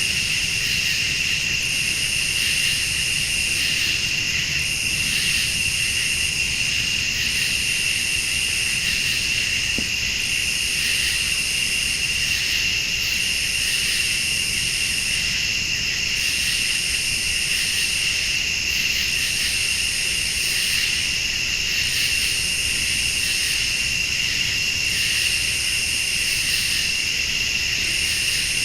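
Night chorus of crickets and late-summer insects: a steady high trill, with a second, higher insect call that pulses on and off about every two seconds.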